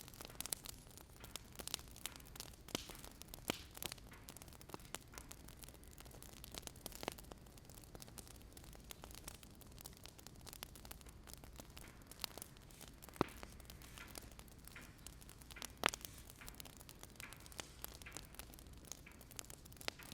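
Wood fire crackling, with irregular small pops and snaps and a few louder cracks, over a steady low hiss and hum.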